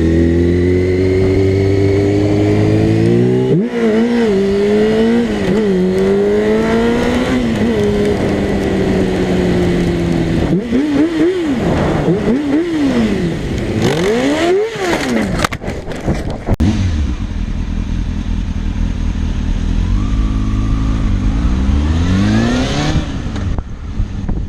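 Motorcycle engine accelerating hard, its pitch climbing and dropping back at a run of gear changes, then revving up and down in quick swings. A burst of sharp clattering knocks comes about fifteen seconds in. After that an engine climbs in pitch again in a few steps.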